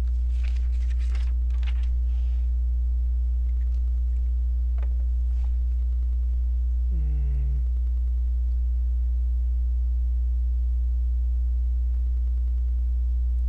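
Steady low electrical hum throughout, with plastic Lego pieces clicking and rustling in the first couple of seconds and a single click near five seconds. A short low "hmm" from the builder falls in pitch about seven seconds in.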